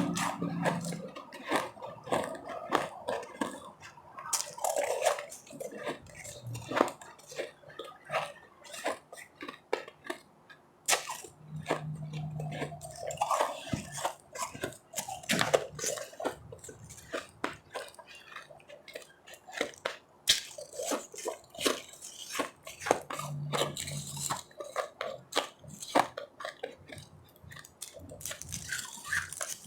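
Ice being chewed close to the microphone: an irregular stream of sharp crunches and bites as hard frozen ice breaks between the teeth.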